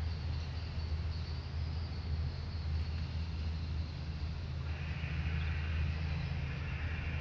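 Low steady rumble of an approaching passenger train heard from trackside. A higher hiss joins about four and a half seconds in and cuts off near the end.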